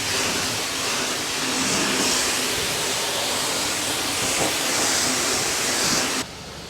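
High-pressure wand at a self-serve car wash spraying water against a truck camper: a steady, loud hiss that cuts off suddenly near the end.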